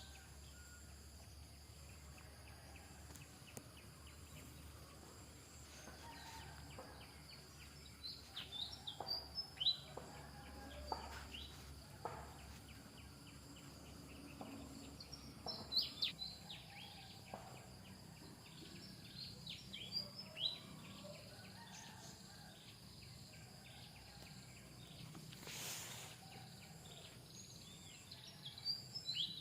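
Scattered clusters of short, high, downward-sweeping chirps over faint steady outdoor background noise.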